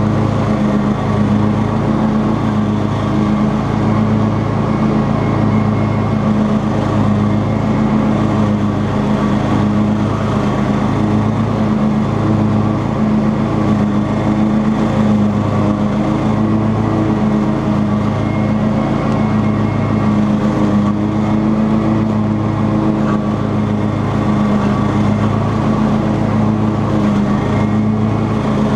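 Cub Cadet XT2 riding lawn tractor running steadily while mowing tall grass with its 42-inch deck, its low engine note swelling and fading every second or so.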